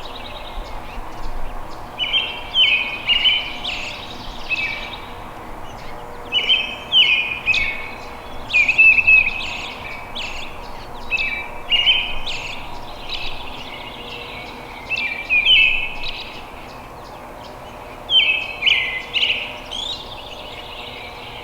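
A songbird singing, short runs of quick, falling notes repeated every few seconds.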